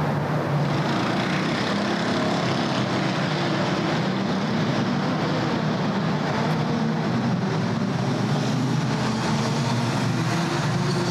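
Steady city road traffic: a continuous blend of car and truck engines and tyre noise with a low hum, no single vehicle standing out.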